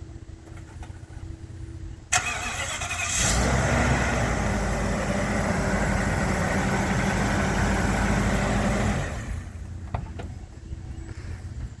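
Ford E-450 box truck engine being started: the starter cranks about two seconds in, the engine catches about a second later and runs loud and steady, then drops to a quieter idle about nine seconds in.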